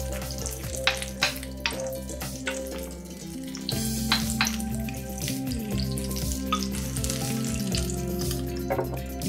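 Vegetable-and-egg fritters sizzling in hot oil in a frying pan, a steady fizz broken by frequent sharp crackles and pops.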